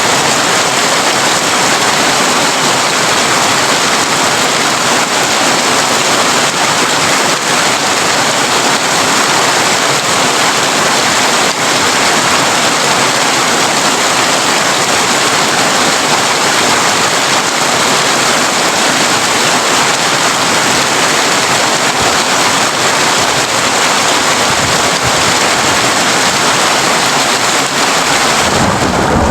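Heavy rain falling on a tin roof: a dense, steady hiss flecked with louder single drops. Near the end a low rumble comes in underneath.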